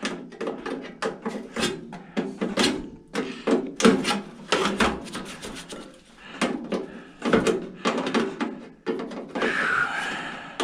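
Crescent wrench and sheet-metal microwave parts clinking and knocking as a bolt is worked loose: a steady run of separate clicks and knocks, with a short scrape near the end.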